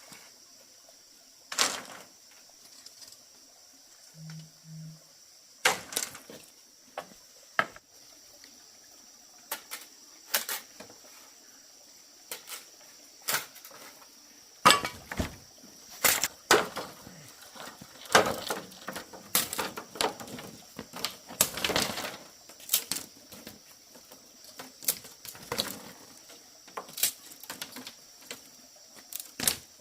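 Irregular sharp knocks and cracks of bamboo being worked by hand, sparse at first and coming thick and fast after the middle, over a steady high-pitched hum.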